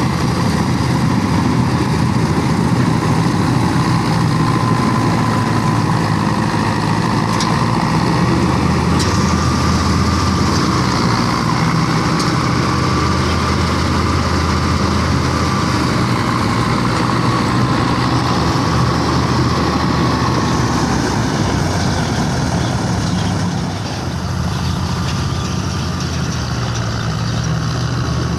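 Diesel engine of a tractor-powered combine harvester running steadily while harvesting paddy, with a higher whine over the engine drone.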